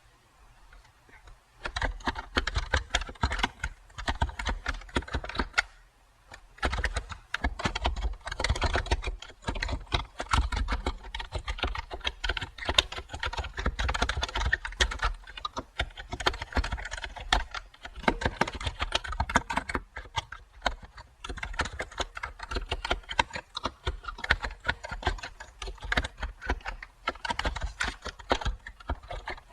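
Computer keyboard typing: rapid runs of key clicks with brief pauses between bursts. It starts about a second and a half in, after a short near-silence.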